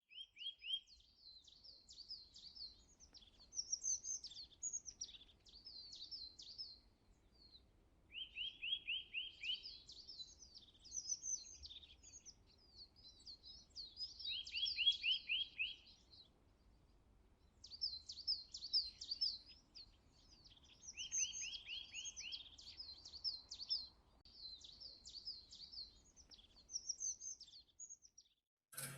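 Birdsong: short phrases of high chirps and trills repeating in bouts with brief pauses, with a quick run of notes every six seconds or so.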